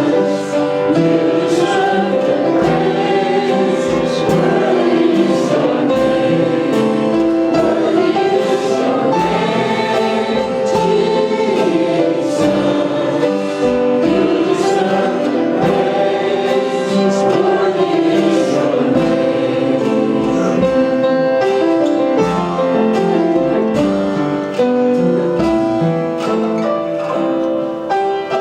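A choir singing gospel music with instrumental accompaniment.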